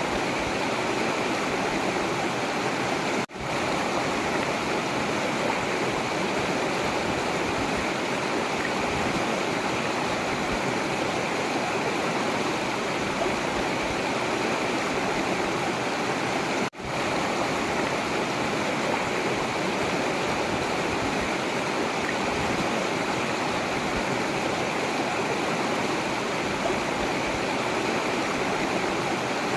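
Forest river flowing in a steady, even rush of water. The sound drops out for a split second twice.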